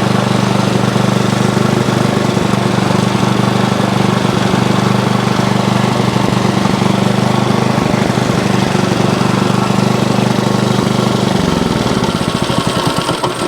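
Go-kart's small engine running steadily on a freshly cleaned carburetor, then about eleven seconds in it slows and sputters as it starts to die. It is running on old gas, which the owner thinks is probably half the problem.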